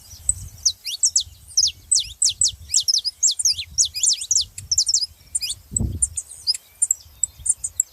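Many small birds chirping at once: a dense, continuous chatter of quick, high, downward-sliding chirps. A low rumble runs underneath, with one dull thump about six seconds in.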